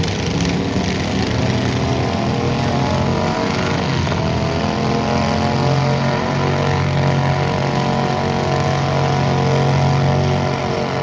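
Tractor engine running steadily at high revs, its pitch shifting and then settling about halfway through.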